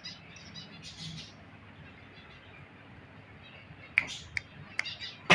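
Parrot making a few sharp clicks about four seconds in, the loudest one at the very end, after a stretch of faint soft chirping sounds.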